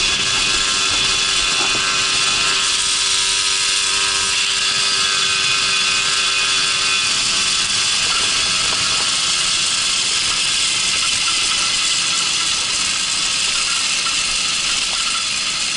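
Babetta moped's small two-stroke single-cylinder engine running loud and steady at an even pitch, easing off slightly near the end.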